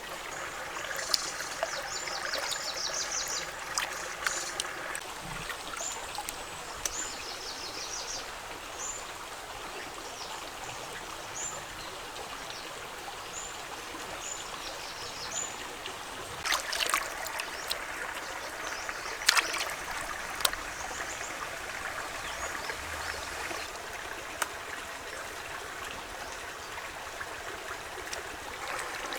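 Steady running, trickling water, with rows of short, high bird chirps repeating through the first half. A few sharp knocks come about 17 and 19 seconds in.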